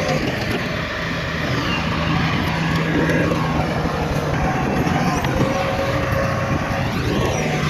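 Heavy diesel engines of earthmoving machinery, a bulldozer and dump trucks, running steadily with a continuous drone.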